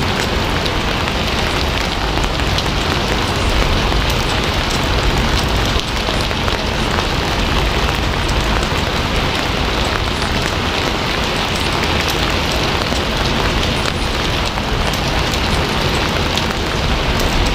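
Steady rain falling on a surface: a continuous even hiss with many scattered sharp drop ticks.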